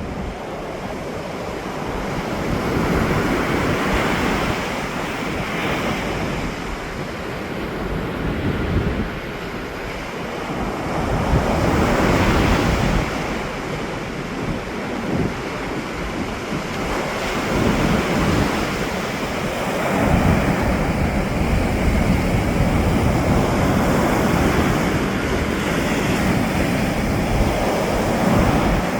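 Ocean waves breaking, the surf swelling and easing every few seconds, with wind buffeting the microphone.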